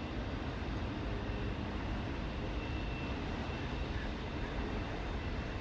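Intermodal freight train cars rolling past: a steady rumble of wheels on rail, with a faint high whine from the wheels briefly in the middle.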